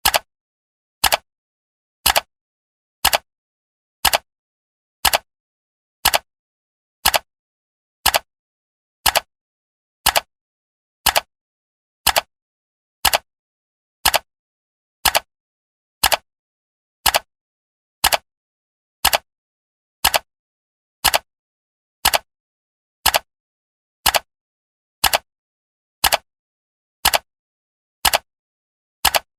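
Clock-style ticking at a steady one tick per second, each tick a short sharp click with silence between.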